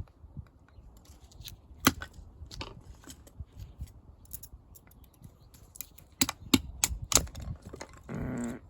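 Pieces of firewood knocking and clacking as they are split and handled, with sharp knocks at irregular intervals: several in quick succession about six to seven seconds in, and a short drawn-out scrape near the end.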